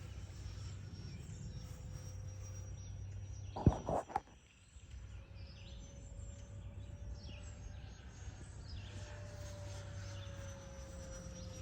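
Distant electric ducted-fan RC jet in flight: a faint whine that slowly rises and then falls in pitch as it passes, over a steady outdoor background. A few sharp knocks about four seconds in.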